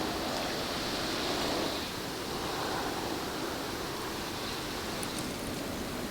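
Small waves on a lake washing against the shore: a steady rushing noise, a little louder in the first two seconds, with a few faint ticks near the end.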